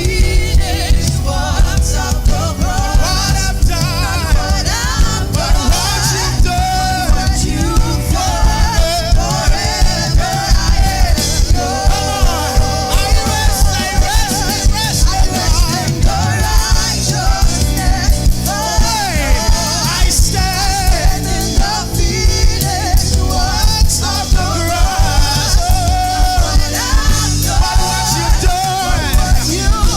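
Live gospel worship music: a band playing with a steady beat, with voices singing over it.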